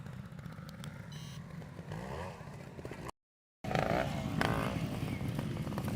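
Trials motorcycle engine running and revving with rising and falling throttle blips, with some clattering. The sound cuts out completely for about half a second around three seconds in, then the engine comes back.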